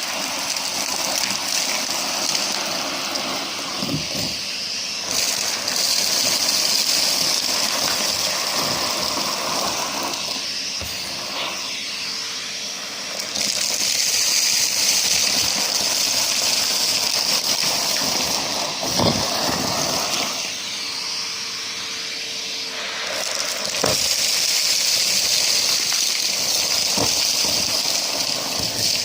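Numatic James canister vacuum cleaner running and picking up mess, its steady rushing hiss swelling and easing in stretches as the floor tool moves, with scattered small clicks of debris being sucked in.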